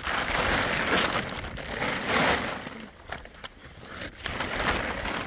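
Plastic sheeting rustling and crinkling as it is handled, loudest in the first three seconds, then quieter with scattered crackles.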